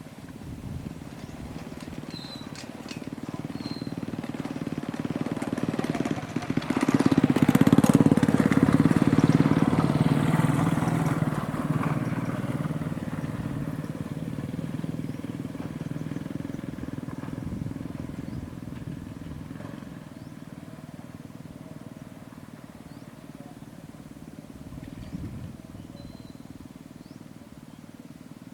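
A small engine running, growing louder to its loudest about seven seconds in, then slowly fading away, as of a motor vehicle passing.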